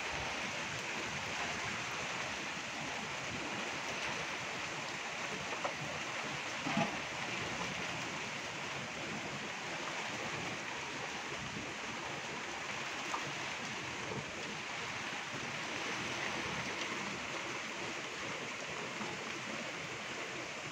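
Heavy rain falling, a steady even hiss, with a few small knocks, the loudest about seven seconds in.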